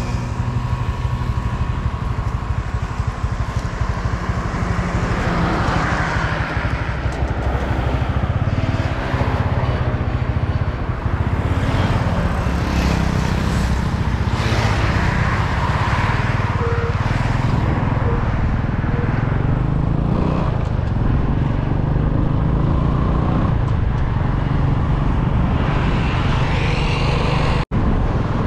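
A small motor vehicle engine, likely a motorbike, running steadily with a low rumble and rushing wind noise, as if heard while riding. The sound drops out for an instant near the end.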